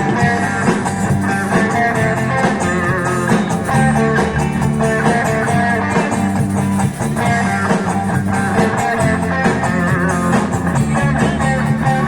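Live band playing an instrumental passage of a pop-rock song: guitar leading over bass and a drum kit with a steady beat, no singing.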